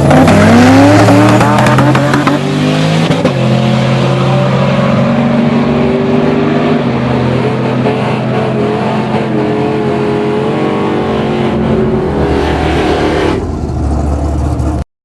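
Single-turbo Chevy extended-cab drag truck making a full-throttle pass: the engine's pitch climbs steeply at the launch, then drops at gear shifts about two and seven seconds in as it keeps pulling hard. The sound cuts off suddenly near the end.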